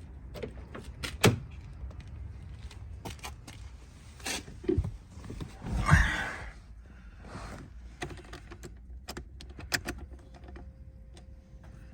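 Scattered clicks and knocks, with a sharp knock about a second in and a louder, noisier thump around six seconds, over a steady low rumble.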